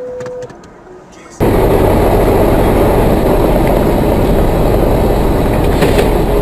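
A loud, steady rumble of vehicle driving noise cuts in suddenly about a second and a half in, after a short quiet stretch, and runs on evenly with no clear impact.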